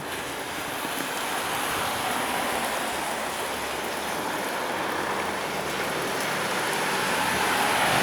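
Freight train hauled by an EF510 electric locomotive rolling past at low speed after departure, its container flatcars' wheels making a steady rolling rumble on the rails that grows gradually louder toward the end.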